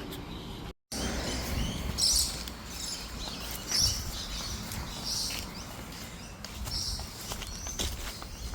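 Outdoor ambience while walking along a road: a low rumble of wind on the phone microphone, with scattered high bird chirps and light footsteps. A brief cut to silence comes about a second in.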